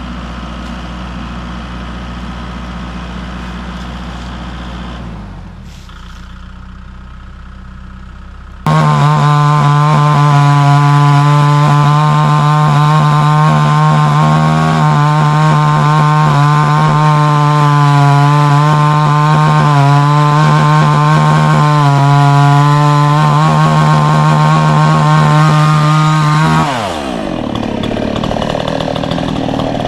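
A steady, fairly quiet low engine hum. About nine seconds in, a chainsaw suddenly jumps to full throttle and holds a loud, steady, high-revving whine for about eighteen seconds with small dips as it bites into the wood. Near the end the throttle is released and its pitch falls away quickly.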